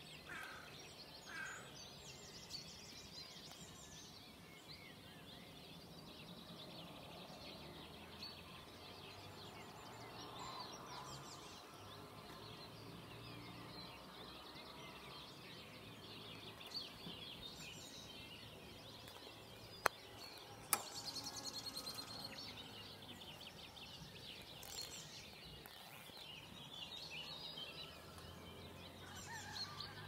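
Several small birds chirping and singing over a low, steady rumble. Two sharp clicks about a second apart come about two-thirds of the way through.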